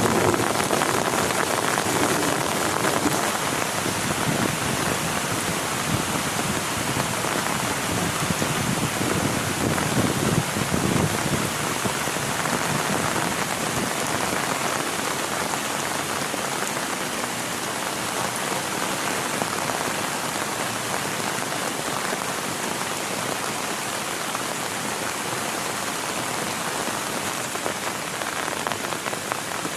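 Heavy rain pouring steadily on a tent, a dense even patter. A low rumble sits underneath for the first ten seconds or so, then fades.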